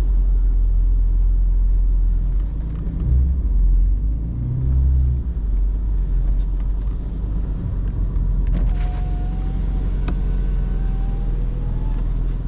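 BMW E39's engine and tyres droning steadily from inside the cabin as the car drives on a snowy road, the engine note swelling briefly twice in the first half.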